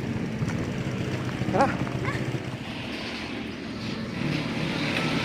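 Motorcycle engine running steadily, with a few short chirps about one and a half seconds in.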